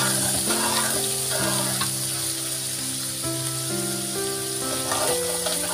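Ground chili spice paste sizzling in hot oil in an aluminium wok, stirred with a metal spatula that scrapes now and then. Background music with held, slowly changing notes plays over it.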